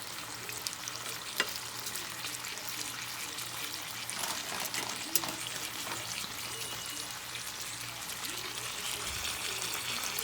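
Chicken chunks frying in olive oil in a hot pan, a steady crackling sizzle, with a couple of sharp clicks.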